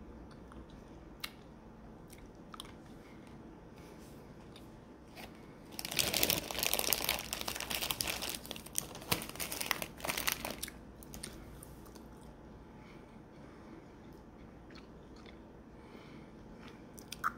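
Candy being eaten, with a stretch of loud crackling and crunching close to the microphone from about six seconds in, lasting some five seconds, and quieter chewing sounds around it.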